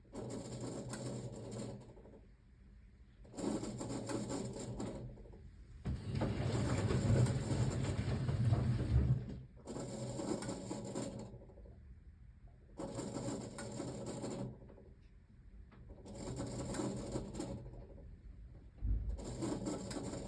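1978 Siemens WA4600 front-loading washing machine washing a load of jeans: the drum motor turns the drum in bursts of two to three seconds with short pauses between them, and the wet laundry swishes and tumbles.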